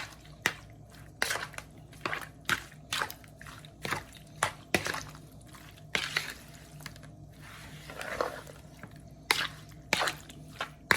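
Raw seasoned shrimp being mixed in a bowl: irregular wet squishing with small clicks, about two a second.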